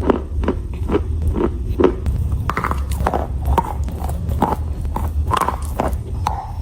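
Close-miked chewing of chalk: a steady run of crisp crunches, about two a second, over a low steady hum.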